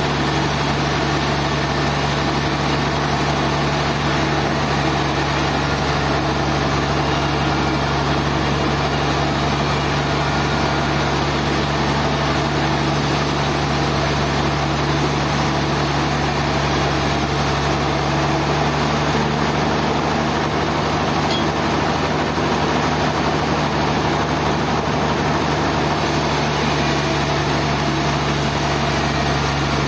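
Sawmill machinery running steadily, a constant loud low hum with a dense mechanical whir over it and no changes.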